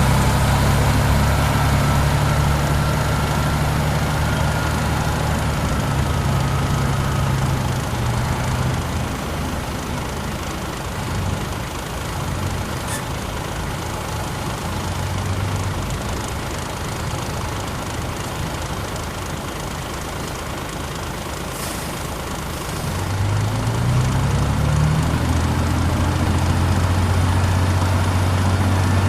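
Diesel engine of a Worldtop dump truck running, loud for the first several seconds, then easing off. About three quarters of the way through it revs up and holds steady at the higher speed.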